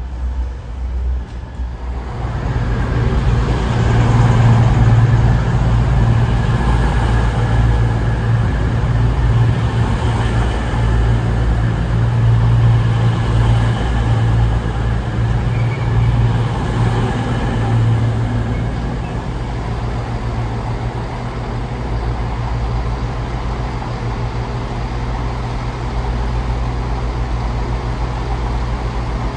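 Diesel train engine running at a station, a steady low hum that swells about two seconds in and eases off somewhat after about twenty seconds.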